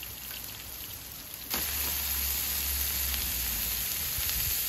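Pork belly frying on a hot grill pan with a light crackle. About a second and a half in, a sudden loud, steady sizzle begins as wet, freshly blanched dureup (Japanese angelica tree shoots) go onto the hot pan and throw up steam.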